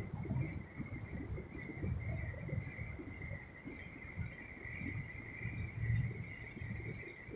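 Insects chirping: a high-pitched chirp repeating about twice a second over a steady thin high trill, with a low rumble of wind or movement underneath.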